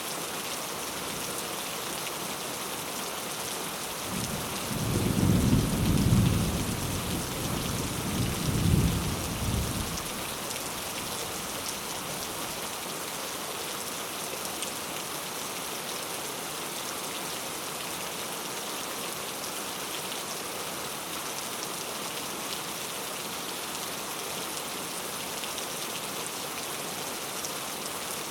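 Steady rain falling, with a roll of thunder about four seconds in that rumbles low, swells twice and dies away after about six seconds.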